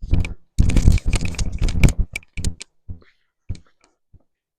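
Footsteps crunching through dry autumn leaves: a dense run of crackling crunches for about two seconds, then fewer, sparser crunches.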